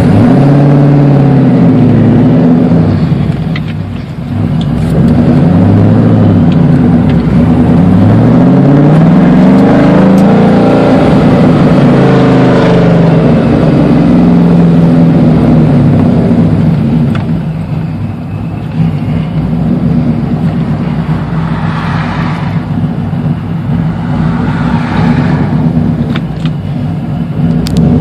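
V8 engine of a late-1990s Camaro Z28 accelerating under load, its pitch climbing and dropping back at each gear change in the first half. It then settles into a quieter, steadier cruise. The car is running on a freshly revised tune that the owner finds runs a lot better.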